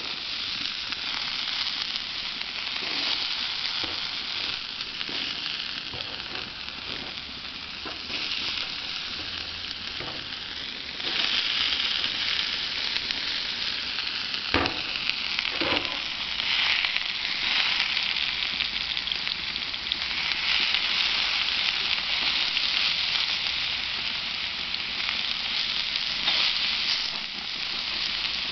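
Sliced potatoes sizzling on a gas grill's flat griddle plate: a steady high hiss that grows louder about a third of the way in. About halfway through there are two sharp knocks.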